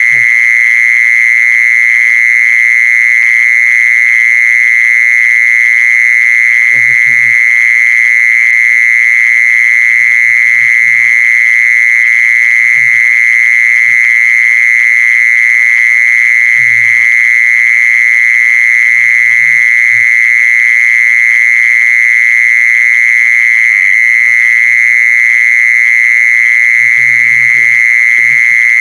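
A jee-sorn insect (แมลงจีซอน) calling in one continuous, loud, high-pitched trill that holds the same pitch and level without a break. Faint low sounds come and go underneath it.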